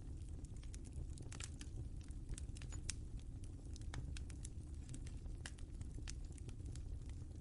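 Wood fire crackling, with irregular sharp pops and snaps, several a second, over a steady low rumble of the flames.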